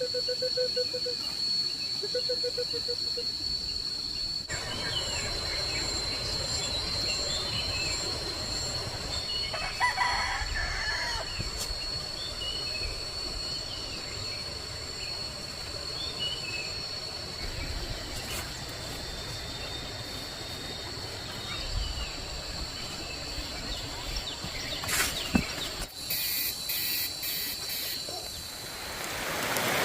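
Chickens clucking and calling with short chirps, one louder call about ten seconds in, over a steady high-pitched whine.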